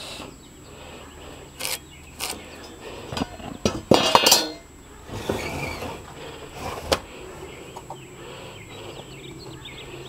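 Scattered clinks and knocks of metal work, with a louder clatter about four seconds in; faint bird chirps behind.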